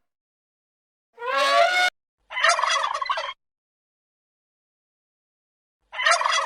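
Male turkey gobbling twice, each gobble a rapid, rattling call about a second long, a few seconds apart. Before them, near two seconds in, a short drawn-out pitched animal call is cut off abruptly.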